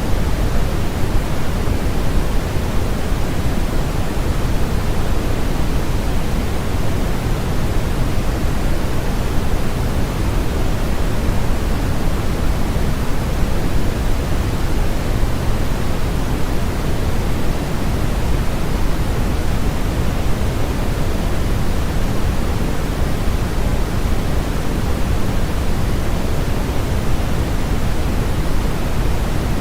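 Steady generated noise sold as white noise: an even, unchanging rush, heavier in the low end than in the highs.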